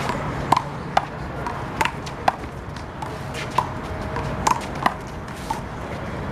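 A one-wall handball rally: about eight sharp, irregularly spaced smacks as the rubber ball is hit by hand and bounces off the wall and pavement.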